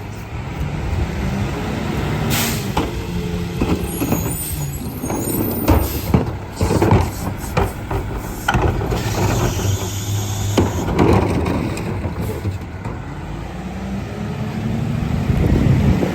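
Garbage truck's diesel engine running, its pitch rising and falling as it revs, with a short air hiss about two seconds in and a run of clanks and bangs in the middle.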